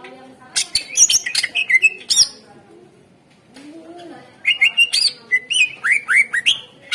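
Cucak ijo (green leafbird) singing: two loud bursts of quick, shrill whistled and chirping notes with fast sweeping glides, separated by a pause of about two seconds.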